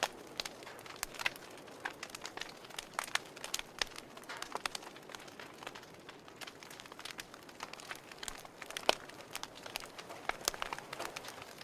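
Fire crackling: irregular sharp pops and snaps over a soft steady hiss, the loudest pop about nine seconds in.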